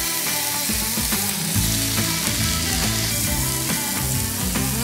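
Chicken breasts sizzling steadily on a hot stovetop grill pan while a piece is turned with tongs, with background music underneath.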